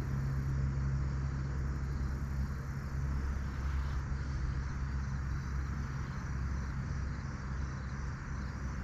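Steady riverside ambience: a low motor hum like distant road traffic over a continuous hiss of flowing river water. The hum's strongest tone fades out a few seconds in.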